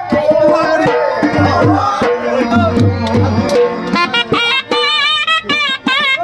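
Gujarati folk music: a dhol keeps a steady rhythm under a sarnai, a double-reed pipe, playing a wavering, heavily ornamented melody that comes to the fore about four seconds in.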